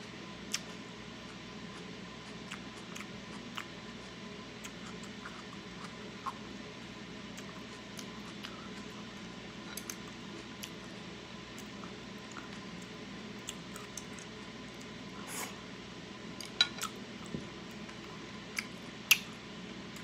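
Close-miked chewing of cooked octopus: soft wet mouth clicks and squishes over a steady hiss. A few sharper clicks near the end come from chopsticks knocking against the ceramic plate.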